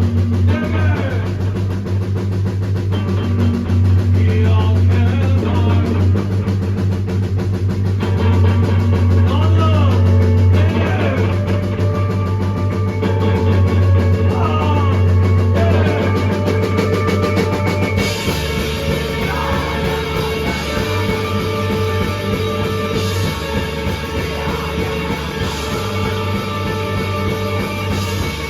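A rock band playing live, with guitar, bass and drum kit, loud and continuous. About eighteen seconds in the music changes to a different section.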